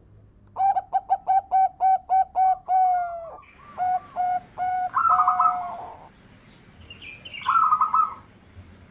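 Zebra dove (perkutut) cooing its song: a quick run of about ten short, evenly pitched notes at about four a second, then a few slower notes ending in a warbled coo, and another short phrase near the end.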